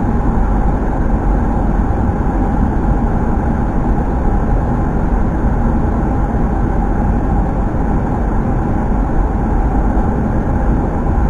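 Steady flight-deck noise of a Boeing 737-800 on short final approach: air rushing past the cockpit and the engines running at approach thrust, with no distinct events.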